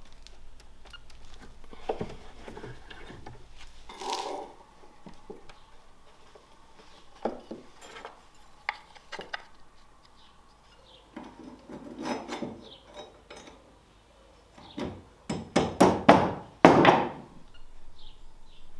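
Hand-tool work on wood: scraping and rubbing, with scattered knocks, then a quick run of five or six sharp knocks near the end.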